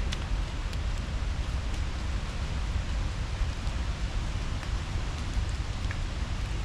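Steady outdoor ambient noise with a strong low rumble and a few faint, scattered ticks.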